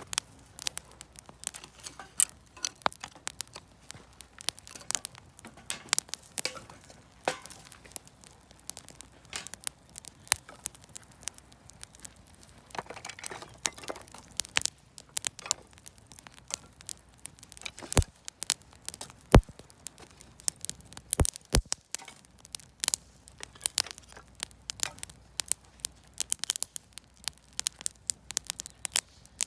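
Campfire of scrap lumber and firewood crackling, with irregular sharp pops and snaps. A few louder pops come about two-thirds of the way through.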